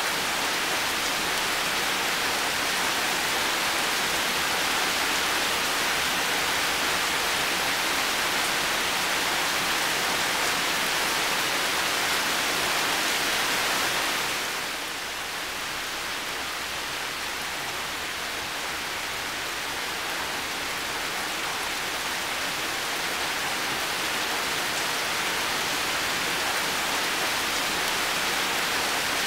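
Heavy rain falling in a steady, dense hiss. About halfway through it drops a little softer, then slowly builds back up.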